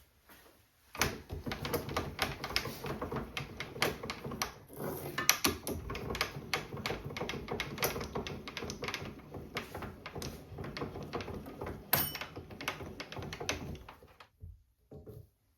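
Rapid, dense clattering and clicking of hard objects being handled for about thirteen seconds, with a sharper knock about twelve seconds in and a couple of short knocks near the end.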